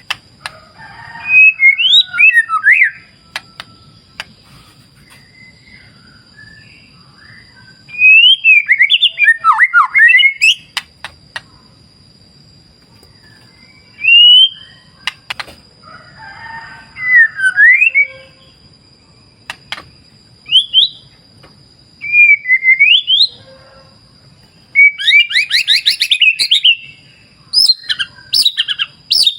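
White-rumped shama (murai batu) singing: loud whistled phrases of rising and falling notes, with pauses of a few seconds between them and a fast rapid-fire run of notes near the end. A faint steady high tone and a faint low rush sit underneath.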